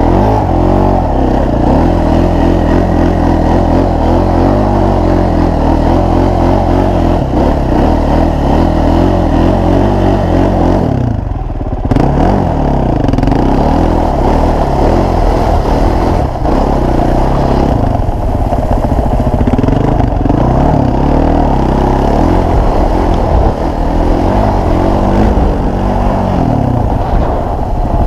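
Small off-road vehicle engine running close by, revving up and down again and again as the throttle is worked, with a short dip about eleven seconds in.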